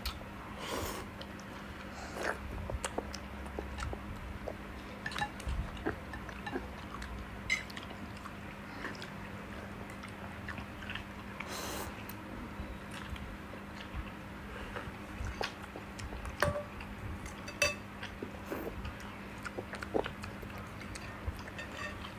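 A child chewing and biting food close to the microphone: scattered short wet smacks and clicks with pauses between. A faint steady hum runs underneath.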